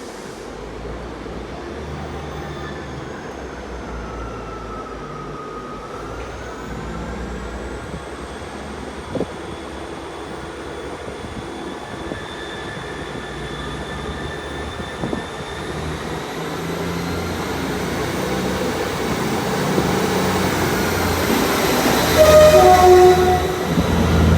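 Train moving through the station with a low engine hum and pitched whines that glide up and down, growing louder toward the end, where higher squealing tones come in.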